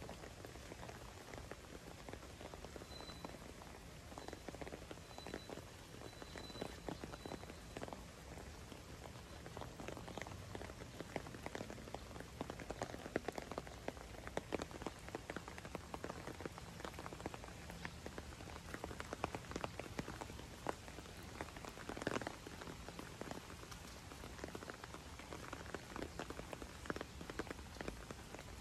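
Steady rain pattering on wet paving, a constant hiss with many small drop taps, some louder than others.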